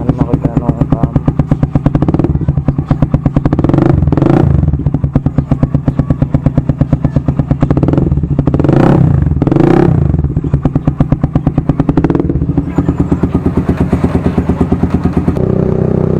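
Motorcycle engine through an aftermarket DBS exhaust pipe with no silencer, idling with a lumpy, pulsing beat and revved briefly three times, once about four seconds in and twice close together near the middle. The pipe is loud enough that police told the rider to fit a silencer.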